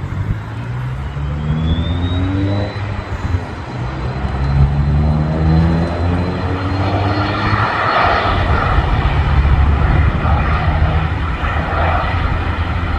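Jet engines spooling up: a high whine rises over the first few seconds and then holds steady, and a loud, heavy roar builds from about halfway through.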